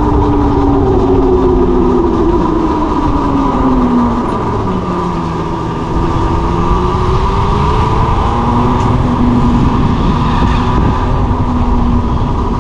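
Yatri electric motorcycle riding along, its motor whining in pitches that slowly rise and fall with speed, under a loud rumble of wind on the microphone.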